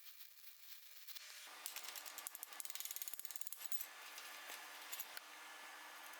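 Stick (shielded metal arc) welding on a cheap 100 V inverter welder, the covered rod's arc crackling and spitting. It starts about a second and a half in and keeps going.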